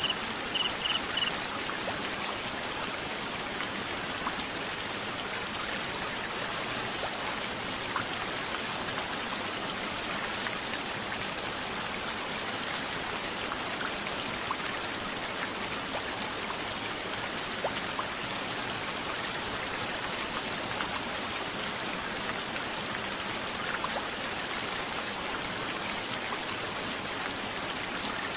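Steady water noise, an even hiss like rain or a stream, with a few faint drops ticking through it. A cricket's rapid pulsed chirping carries on for about the first second, then stops.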